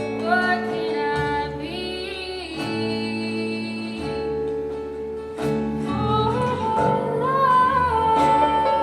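A woman singing a slow song with instrumental accompaniment: sustained chords under held sung notes, the melody rising and holding a long high note in the second half.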